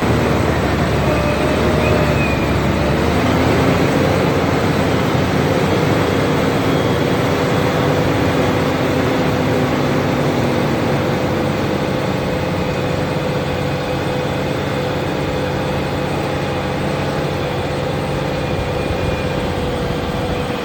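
Large Fendt tractor's diesel engine running steadily, with a steady whine over a low rumble.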